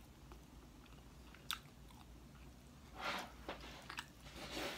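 A person eating: quiet chewing and biting, with a sharp click about one and a half seconds in and two louder crunchy bites, one about three seconds in and one near the end.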